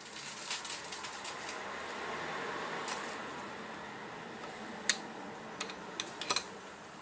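Hand ratchet clicking in quick runs as the Mini 1293 cylinder head nuts are run down and nipped up before torquing. A handful of separate sharp metallic clicks follow in the second half.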